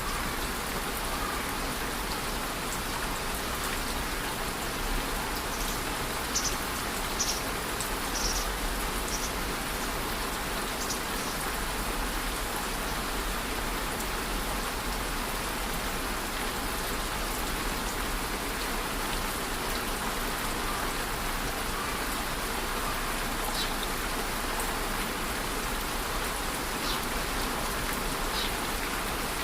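Steady rain falling, an even hiss with a few sharper individual drop ticks now and then.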